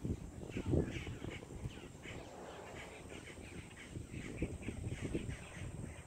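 Birds calling with short, rapidly repeated cries, several a second, over irregular low rumbling bumps.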